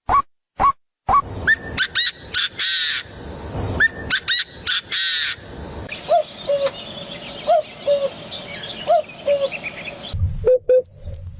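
Various birds calling and chirping, several kinds at once. In the second half a low two-note call repeats about every one and a half seconds.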